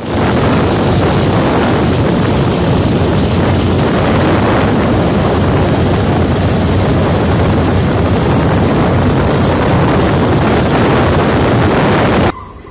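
Strong wind blasting the microphone over the steady running of a sand-dredging boat's engine. It cuts off suddenly near the end.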